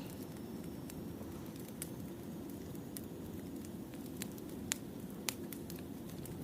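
Wood fire burning: a steady low rush with scattered crackles and small pops, two sharper pops a little past the middle.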